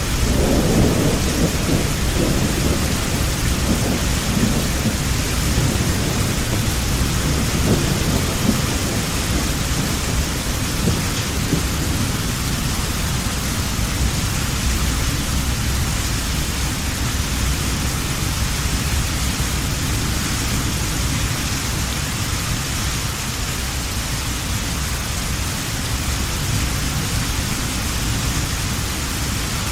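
Heavy rain falling steadily, with a low rumble of thunder that is strongest at the start and fades away over the first half.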